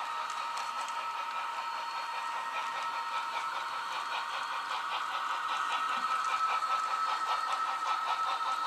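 An HO-scale model diesel train running past on the layout: a steady high whine with a fast, even clicking of wheels and mechanism, growing a little louder about halfway through.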